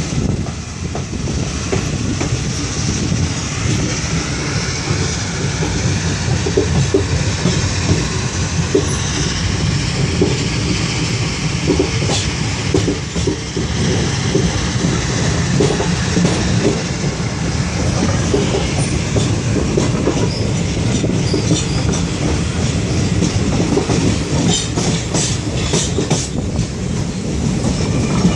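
Train running along the track, with a steady rumble, wheels clacking over rail joints and a faint high wheel squeal at times; the clicks come thicker near the end.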